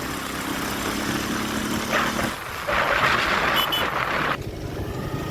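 Vehicle engine running under road and wind noise, with the noise swelling about three seconds in and a brief high beep just after.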